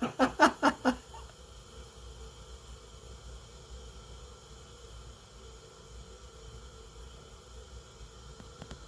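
A faint, steady hiss with a few soft ticks near the end, after a brief stretch of a man's voice at the start.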